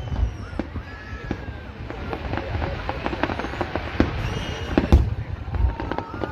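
Fireworks display: aerial shells bursting with deep booms, the loudest just after the start and about five seconds in, amid a steady crackle of smaller bursts.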